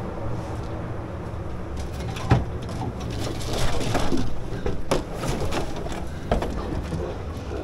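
Pigs in a pen grunting and squealing, with a few sharp knocks of hooves or pen fittings over a steady low hum.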